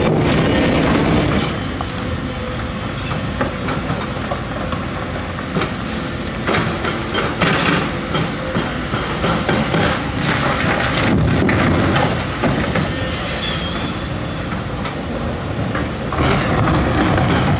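Large hydraulic excavator working: its diesel engine runs continuously under repeated metallic clanks and knocks from the tracks and bucket working dirt.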